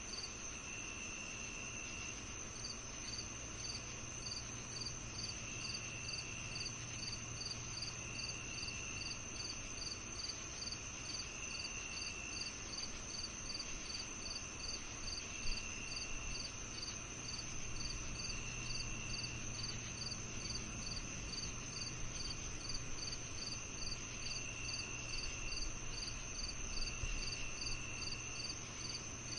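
Crickets and other insects calling together: a steady high-pitched trill, a chirp repeating about two to three times a second, and a lower trill about a second long that comes and goes every few seconds. A faint low hum lies underneath.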